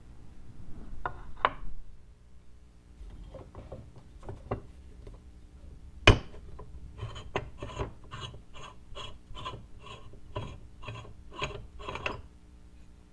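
Hand tool rasping against the rusty metal of a vintage meat grinder: a few light knocks, one sharp click about six seconds in, then about a dozen quick, even scraping strokes, two to three a second, that stop shortly before the end.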